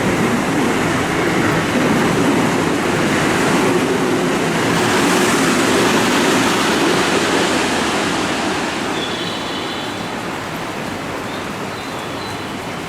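A seven-car JR West commuter electric train running into the platform. Its loud, steady rumble and rush eases off over the second half as the train slows. Brief high squeals come near the end.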